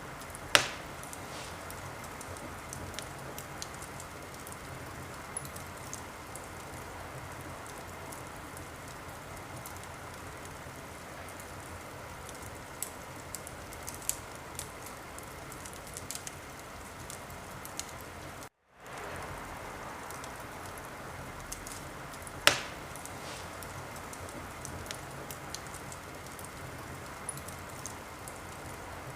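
Wood fire burning in a fireplace: a steady hiss with scattered small crackles and two loud pops, one right at the start and one about three quarters of the way through. The sound cuts out for a split second about two thirds of the way in.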